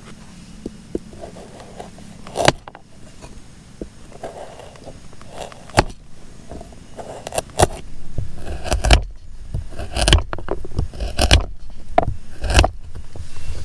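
Gear being handled: a series of sharp knocks and scrapes a second or two apart, with heavier low thumps and rustling in the second half.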